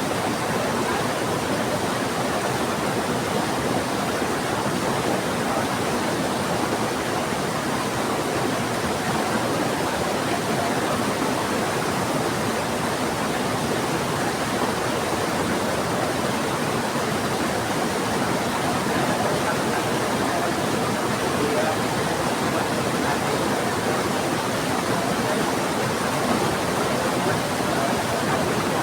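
Rushing river water with rain falling: a steady, unbroken rush of water that stays even throughout.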